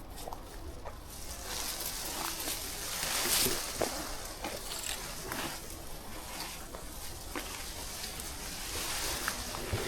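Footsteps pushing through forest undergrowth, with vegetation swishing in swells and small cracks and snaps from twigs and leaf litter underfoot.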